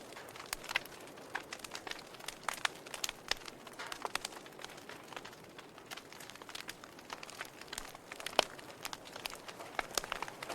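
Wood logs burning in a fireplace, crackling and popping irregularly over a soft hiss, with one louder pop about eight seconds in.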